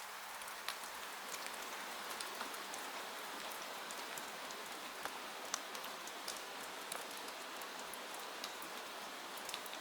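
Steady rain falling, a dense even hiss, with scattered sharp ticks through it.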